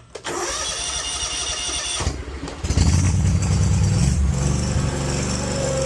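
Hustler Raptor XD zero-turn mower engine starting now that its new ignition solenoid works: the starter cranks for about two seconds, then the engine catches a little under three seconds in and runs steadily.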